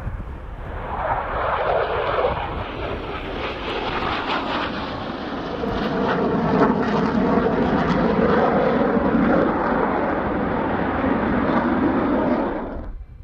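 F-16 fighter jet noise, a loud engine rumble that builds about a second in, grows stronger in the second half, and cuts off suddenly near the end.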